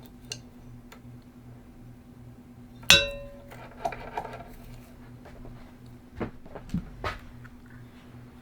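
Metal tools or parts being handled on a workbench. About three seconds in comes one loud, ringing metal clang, followed by lighter clinks and knocks, all over a steady low hum.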